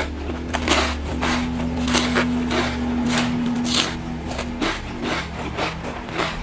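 Hard ice being chewed close to the microphone: irregular sharp crunches, about two to three a second, over a steady low hum.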